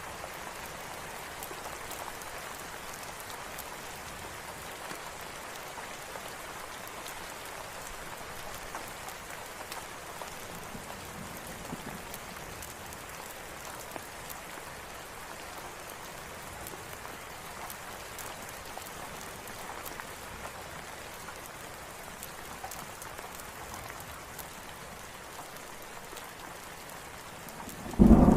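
Steady rain falling, an even hiss of drops. Just before the end a sudden loud clap of thunder breaks in.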